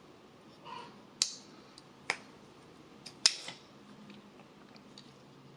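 Clicks from a folding knife being handled and worked open and shut: a soft rustle, then four short sharp clicks spread over a few seconds, the last two close together and the last the loudest.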